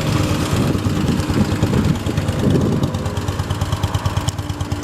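1977 BMW R100/7's air-cooled flat-twin boxer engine idling steadily, with an even low pulsing beat.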